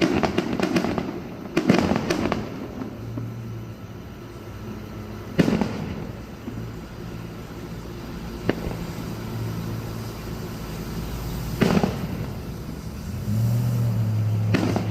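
Fireworks going off: a quick run of bangs and crackles in the first two seconds, then single bangs a few seconds apart. A steady low hum runs underneath and gets louder near the end.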